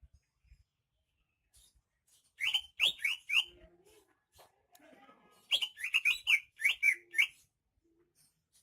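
Cucak ijo (green leafbird) singing in two bursts of short, sharp, down-slurred chirps: about four quick notes, a pause of two seconds, then a longer run of about eight.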